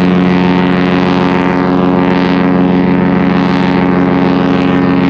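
Cruise ship's horn sounding one long, steady, deep blast.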